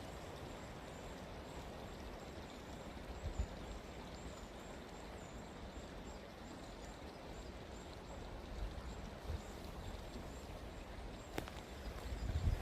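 Steady forest ambience: an even hiss with occasional low rumbles and a sharp click about eleven seconds in.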